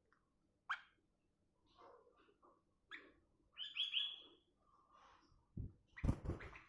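Sooty-headed bulbul calling with short, scattered chirps, the loudest a quick run of notes about four seconds in. Near the end come a few dull knocks and rustling.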